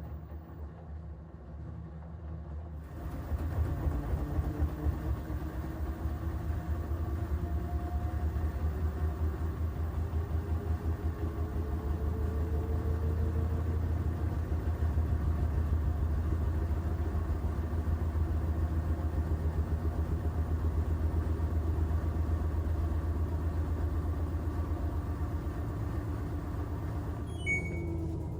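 LG front-loading washing machine (F4WR510SBW) on a spin cycle with a load: the drum rumble comes in about three seconds in, and the motor whine rises slowly in pitch as the spin ramps up, then drops near the end. Its vibration sensor has been relocated, so the spin keeps ramping instead of being cut back.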